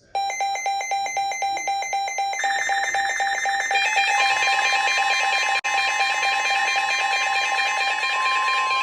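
Weather radio receivers alarming for an incoming warning: rapid electronic beeps at several pitches, with more beeps joining in. From about four seconds in, a steady 1050 Hz NOAA Weather Radio warning alarm tone sounds under them.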